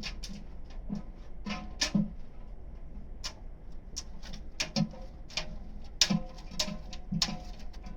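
Irregular clicks and light knocks, about two or three a second, over a low steady hum.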